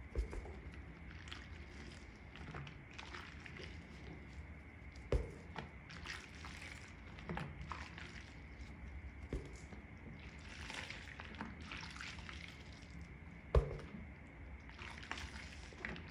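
Wet makeup sponges being squeezed and squished in soapy water, with repeated wet squelches, sloshing and dribbling water every second or two. A few dull knocks come in between, the loudest about three seconds before the end.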